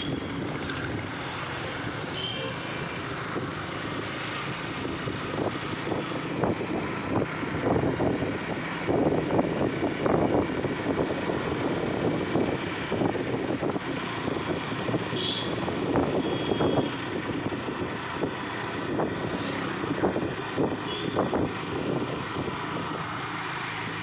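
Motorcycle on the move in road traffic: engine and road noise running steadily, a little louder in the middle.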